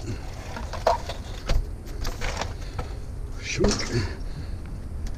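A few separate knocks and clunks of scrap metal being handled, over a steady low rumble.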